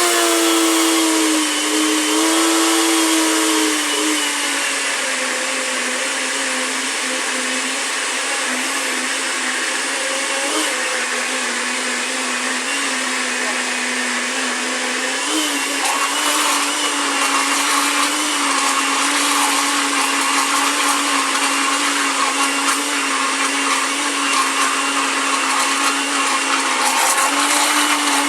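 Electric kitchen blender running, blending wheat flour with milk and coconut milk. Its motor pitch drops slightly a few seconds in, then holds steady.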